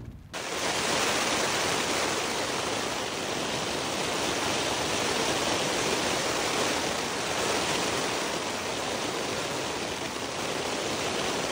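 Hard rain falling steadily, a dense even hiss of water. It cuts in just after the start and cuts off near the end.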